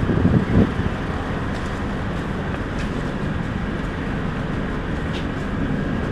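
Metro train running, a steady rumbling noise.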